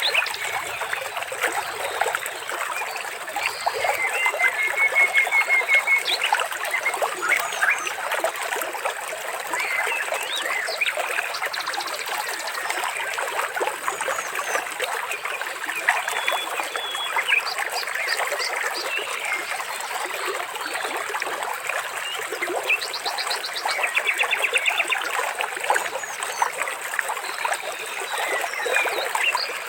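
Water trickling steadily, with birds calling over it now and then, including a few quick trills.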